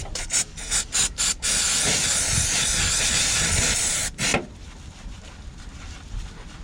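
A pressurised jet hissing: several short blasts, then one long blast of about two and a half seconds, and a last short blast.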